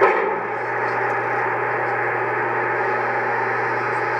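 O-scale model train running under heavy load: a steady rolling drone of metal wheels on three-rail track over a constant low hum. A sharp metallic clank that rings briefly sounds right at the start.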